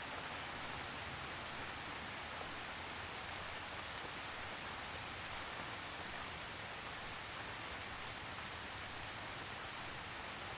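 Steady, gentle rain falling on a surface, an even patter with occasional faint individual drops.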